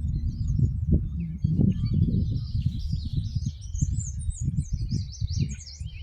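Several birds chirping and trilling over a loud, gusty low rumble.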